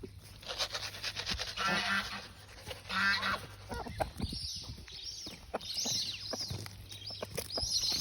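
Sebastopol geese honking, two drawn-out calls in the first few seconds followed by a run of shorter, higher calls.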